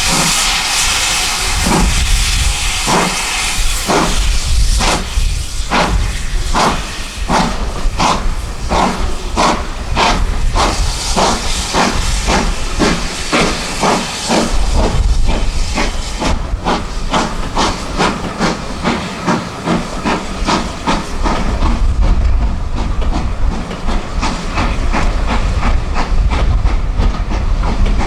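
Steam locomotive, the GWR Manor class 4-6-0 No. 7802 Bradley Manor, pulling away: a loud steam hiss at first, then chuffs from its two cylinders that start about one a second and quicken to two or three a second as the train gathers speed.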